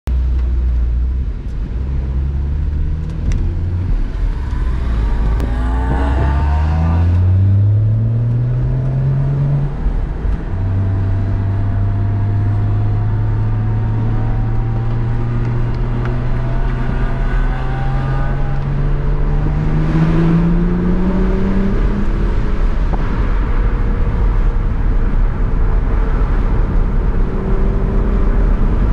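BMW 1 Series engine heard from inside the cabin, pulling up through the gears. The revs climb, drop at an upshift about ten seconds in, climb slowly again and drop at a second upshift a little past twenty seconds, over steady road and wind noise.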